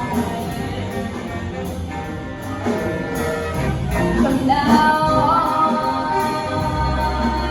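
Big band jazz with a female singer; a long note is held through the last few seconds.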